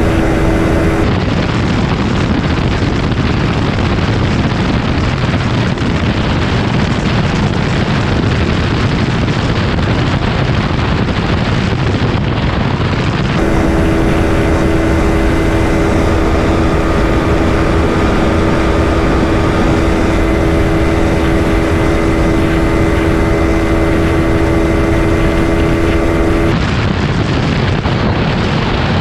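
Yamaha 155 cc single-cylinder motorcycle running flat out at a steady top speed, under heavy wind rush on the microphone. The engine's steady hum is plain at first, drops out about a second in, and returns clearly for the middle stretch before cutting off sharply near the end.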